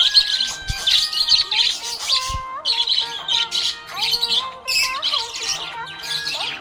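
Budgie chirping in rapid, repeated bursts, over background music with a simple stepping melody.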